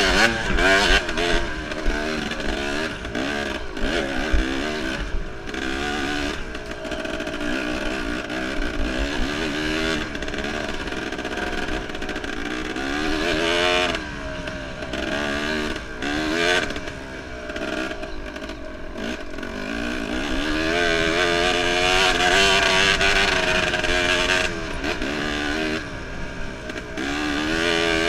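Enduro dirt bike engine revving up and easing off again and again as it is ridden hard on a trail, with a steady low rumble underneath.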